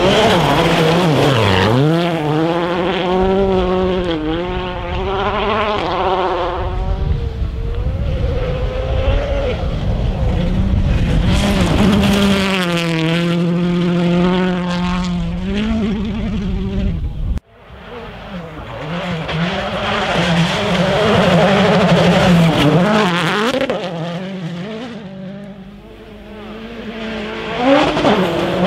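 Rally cars at full throttle, engines revving up and dropping through quick gear changes, with brief tyre skids. The sound cuts abruptly about two thirds of the way through to another car, which fades and is followed by the next car coming in loud near the end.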